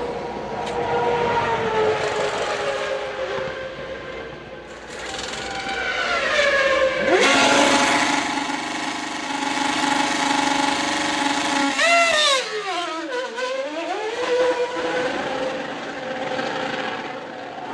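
Formula One cars' high-revving racing engines, several pitches overlapping and gliding up and down as the cars accelerate and change gear. About twelve seconds in one engine's pitch drops steeply and then climbs again.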